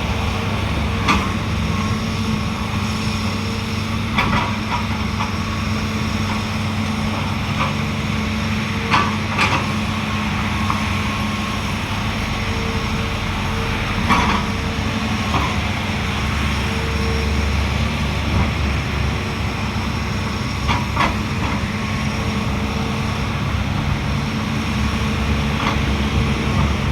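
Heavy diesel engines of an excavator and a dump truck running steadily under load, with sharp knocks every few seconds as the excavator bucket scrapes sticky clay that will not slide out of the raised dump bed.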